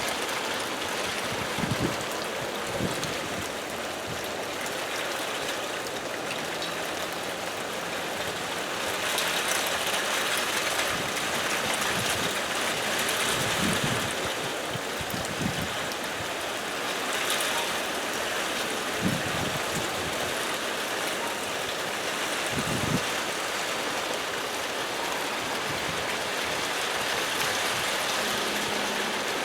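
Heavy rain falling steadily, with a few short low thuds scattered through it.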